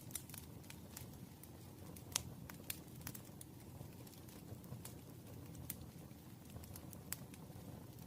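Wood fire crackling: scattered sharp pops and snaps, the loudest about two seconds in, over a soft low rumble of burning.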